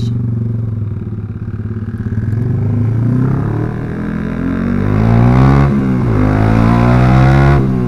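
Yamaha R15 V3's single-cylinder engine through a Proliner aftermarket exhaust, ridden at a steady note, then accelerating with the pitch rising from about four seconds in. There is a brief dip near six seconds, like a gear change, and the pitch climbs again before the engine eases off near the end.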